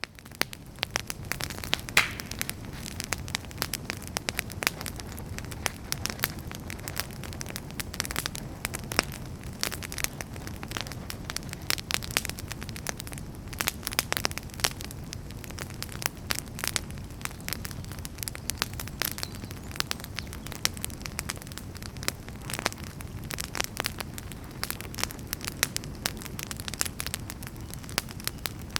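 Wood fire burning in a fireplace: a dense run of sharp crackles and pops over a steady low rush of flame, fading in quickly at the start.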